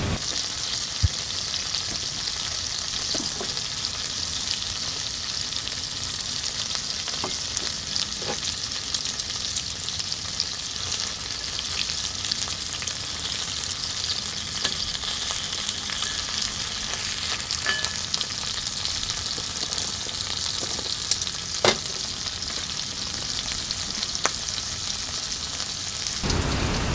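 Food sizzling in a frying pan, a steady hiss with a few sharp clicks scattered through it.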